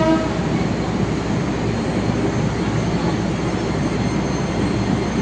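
The end of a train horn blast cuts off just after the start, followed by the steady rumble of a train at the station.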